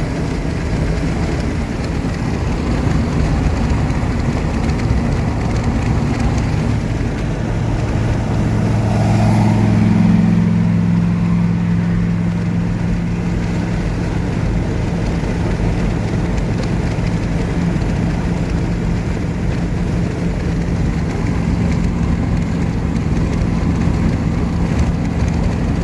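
Car driving, a steady engine and road hum; about ten seconds in the engine note steps up in pitch and holds there.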